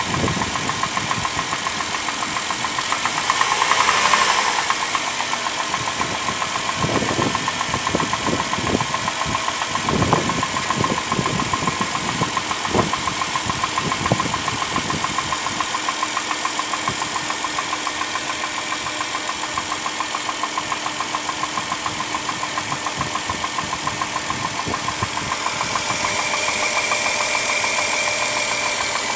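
Dodge Caravan 3.3-litre V6 idling with a fast, regular knocking tick, which the owner takes for a knock in the engine. The engine swells briefly about four seconds in, and a few louder knocks come through between about seven and fifteen seconds.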